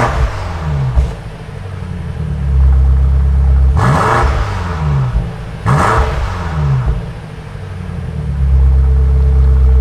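Stock BMW M8 Competition's twin-turbo V8 idling with three sharp throttle blips, near the start, about 4 s in and about 6 s in. Each time the revs climb quickly and fall back to idle.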